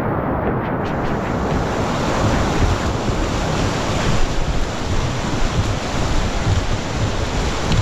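River whitewater rushing steadily, with wind buffeting the microphone.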